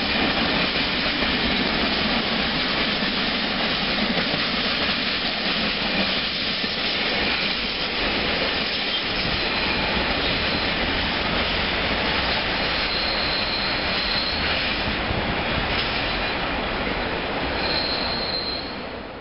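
Container freight train rolling along the rails: a steady rumble and rattle from the wagons, with brief thin high-pitched squeals about two-thirds of the way through and again near the end.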